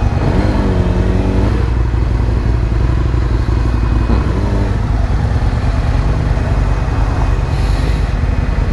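Yamaha R6 sport bike engine running steadily while riding, with road and wind noise over the drone.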